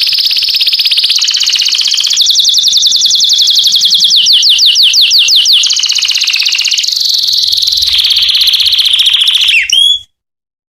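Male canary singing a long, unbroken song of rapid trills, with a run of quick falling sweeps in the middle. The song cuts off suddenly near the end.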